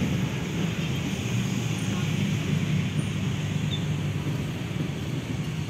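Diesel-hauled passenger train pulling away along the track: a steady low rumble of the locomotive and wheels on the rails, easing slightly near the end.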